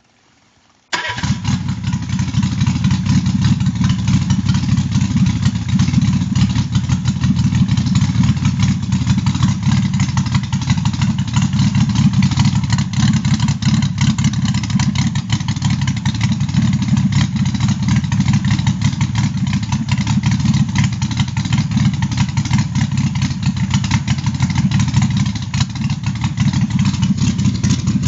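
Freshly rebuilt Renault 5 Alpine four-cylinder engine, with a lightened and balanced crankshaft, a reground camshaft and a programmable 123ignition distributor, running steadily. The engine sound cuts in suddenly about a second in, with no cranking heard.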